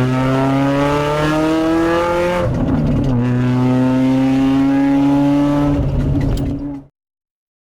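Tuned Lada (VAZ) car engine pulling under hard acceleration, its pitch climbing steadily. The pitch drops with a gear change about two and a half seconds in, then climbs again through the next gear. The sound cuts off suddenly near the end.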